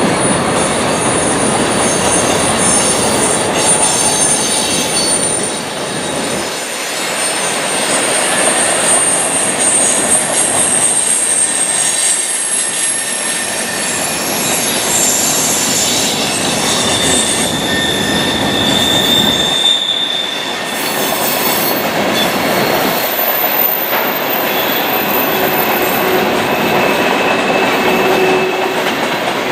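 Freight train cars rolling past on the rails with a steady rumble, their wheels squealing in thin high-pitched tones that come and go.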